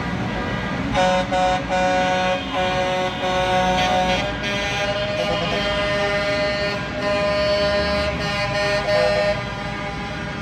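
Truck air horns honking: a few short blasts, then long held blasts that change pitch, over the low rumble of truck engines.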